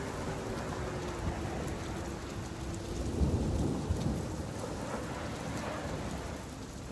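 Steady rain falling, with a low rumble that swells about three seconds in and fades a second or so later.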